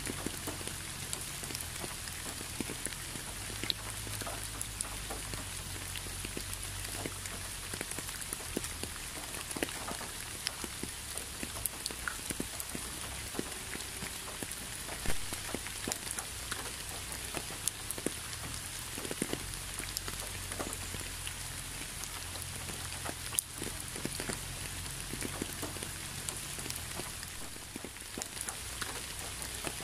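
Steady rain: an even hiss with many separate drops landing close by as sharp ticks, one louder drop about fifteen seconds in.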